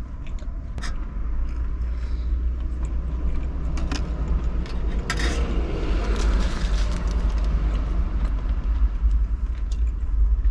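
Wind buffeting the microphone, a steady low rumble, with a few sharp clicks and rustles over it.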